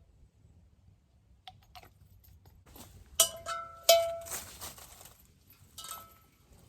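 Metal objects clanking together: two sharp clinks about 0.7 s apart, each ringing briefly, with lighter knocks before and a smaller clink near the end.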